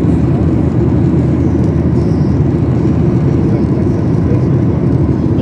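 Steady low rumble of a Boeing 737-800's CFM56-7B jet engines and airflow, heard inside the cabin.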